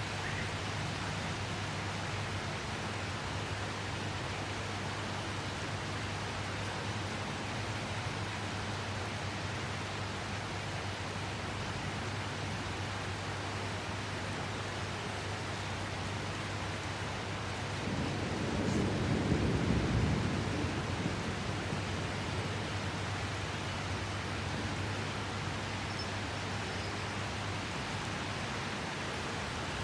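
Steady rain falling as a constant even hiss, with a low rumble swelling and fading about two-thirds of the way through. A faint steady low hum underneath stops near the end.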